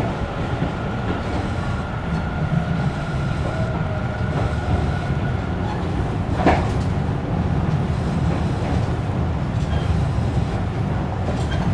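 Running noise of a Tobu electric multiple unit heard from inside the car: a steady rumble of wheels on rail. A thin high tone sounds for the first few seconds, and a single sharp clack comes about six and a half seconds in.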